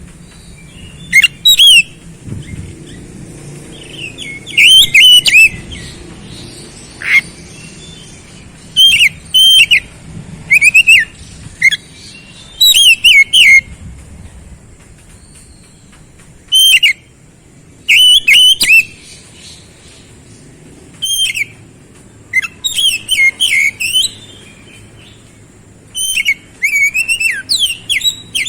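Oriental magpie-robin (kacer) singing in vigorous, fast song: about a dozen loud bursts of rapid sweeping whistled notes, separated by pauses of one to three seconds.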